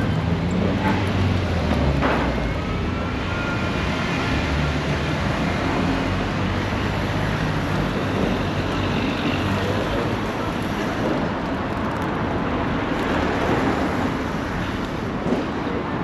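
Steady road traffic noise, with vehicles passing and a low engine rumble.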